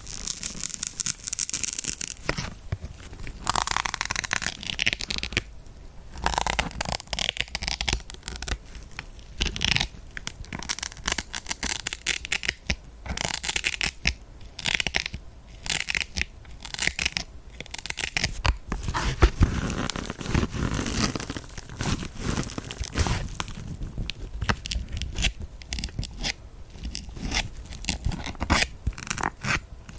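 Needles being pushed into a kitchen dish sponge: a dense run of short scratchy rasps, irregular in spacing.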